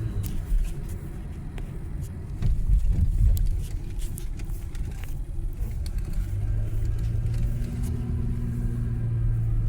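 Road noise heard from inside a moving car: a steady low rumble of the car driving, with a few light clicks, swelling louder for about a second around three seconds in.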